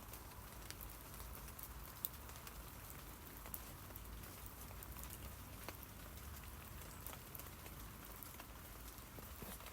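Rain falling on tree leaves: a steady patter of many scattered drop ticks over a soft hiss.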